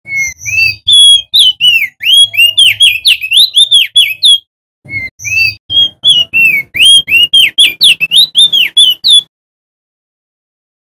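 Male opior jambul (crested white-eye) singing two fast, loud runs of sweeping whistled notes, several notes a second, with a brief pause between the runs; the song stops a little over a second before the end.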